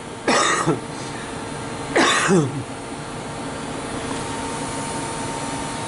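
A person coughing or clearing their throat twice, in two short bursts about a second and a half apart, over a steady background hum.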